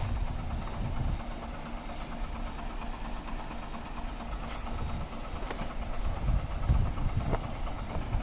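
Heavy truck's diesel engine running with a low rumble that swells louder twice.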